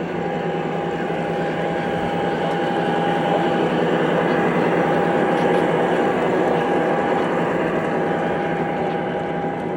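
A train running past, a steady rolling noise with a thin steady whine, growing louder towards the middle and easing off near the end.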